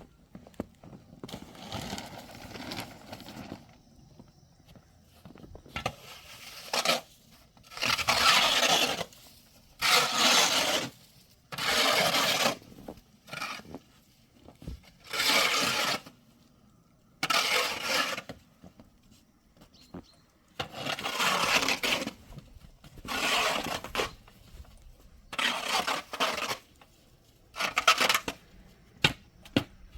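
A series of rough scraping strokes, about one every one to two seconds, each lasting around a second.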